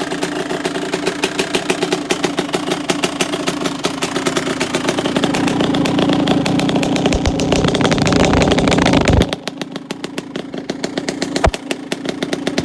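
Kawasaki KX two-stroke dirt bike engine idling to warm up after a cold start, choke off, with a fast, even popping. It grows louder, then drops suddenly about nine seconds in, and a single sharp click comes near the end.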